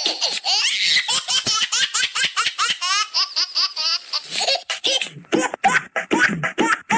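A baby's high-pitched laughter, dubbed over the clip as a laugh track, in quick repeated peals. About halfway through it gives way to deeper, choppier laughs.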